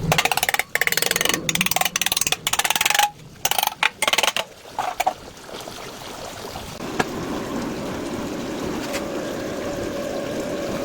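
Stick welding arc crackling in short start-stop bursts for about three seconds, with a few more bursts a little later. After that comes a steadier, quieter hum with one faint held tone.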